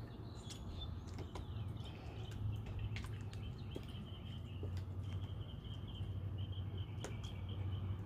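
Birds chirping, with a high pulsing trill that holds for several seconds in the middle, over a steady low hum.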